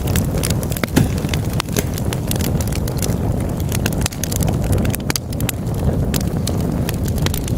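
Log fire in a fireplace crackling: many irregular sharp pops and snaps over a steady low rumble of burning wood.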